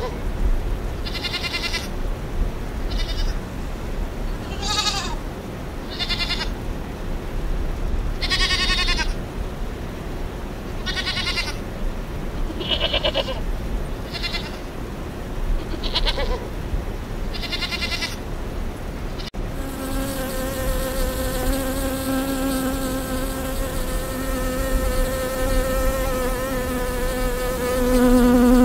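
Lambs bleating, repeated short high-pitched calls about one every second or two, some falling in pitch. About two-thirds of the way through, the bleats give way to the steady humming buzz of a mass of honeybees.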